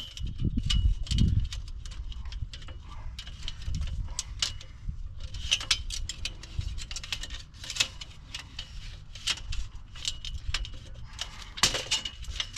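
Small ratchet strap being cranked tight: a run of short, irregular metallic clicks, with a few low knocks in the first second and a half.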